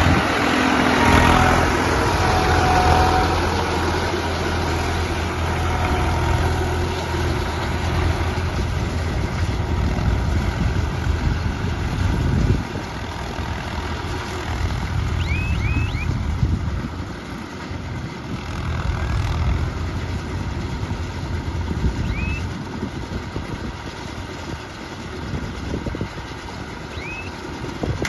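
Tractor engine running steadily while driving a baler, with a deep hum that eases off a little about halfway through. A few short high chirps come in during the second half.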